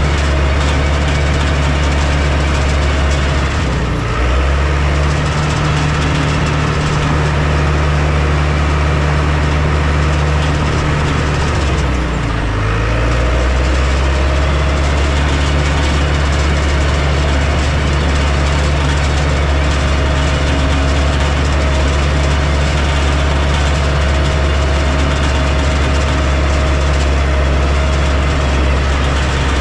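Heavy diesel engine of earthmoving equipment running steadily. Its note dips and shifts briefly about four seconds in and again about twelve seconds in.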